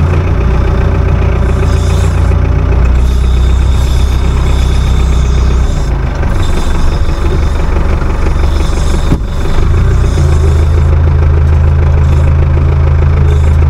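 Farm tractor engine running steadily while the front loader is worked; the engine note shifts and wavers about halfway through, dips briefly, then settles to a steady, slightly higher pitch.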